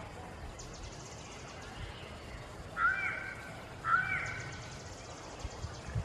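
A bird calls twice, about a second apart; each call is short and pitched, with a quick upward sweep at its start. A faint, rapid high-pitched pulsing runs behind it.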